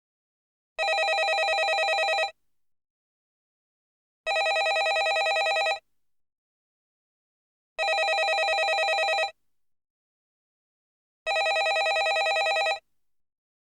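Landline telephone bell ringing: four rings of about a second and a half each, with a fast trill, repeating about every three and a half seconds with silent gaps between.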